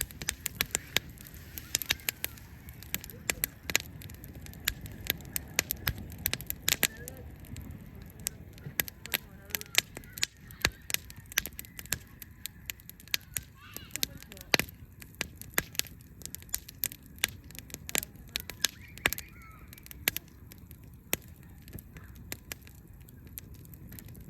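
Wood fire burning, crackling with many sharp, irregular pops over a low steady rumble of the flames.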